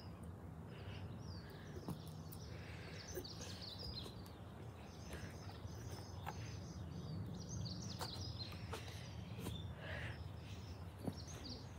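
Small songbirds chirping in quick, repeated short calls over a steady low background rumble, with a few faint sharp clicks.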